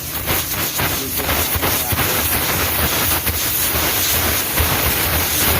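Loud, steady hiss of compressed air blasting through a truck air filter element to clean it.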